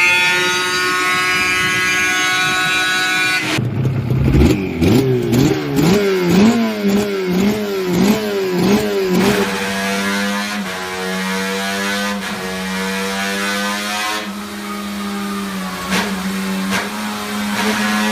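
Suzuki two-stroke sport motorcycle exhaust: first held steady at high revs, then after a sudden cut blipped about seven times in quick succession, each rev rising and falling, then settling into a steady idle.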